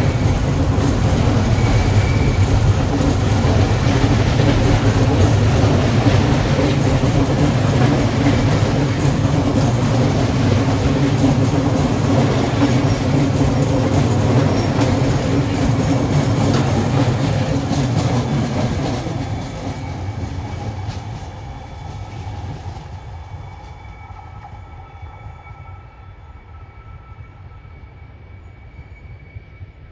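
Container freight train wagons rolling past on the rails, a loud steady rumble of wheels and wagons. About 19 seconds in, the sound fades away as the end of the train passes and draws off around the curve.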